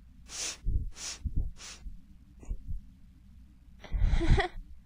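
A person's breathing: three short breathy hisses about half a second apart, then a longer, louder breathy burst about four seconds in.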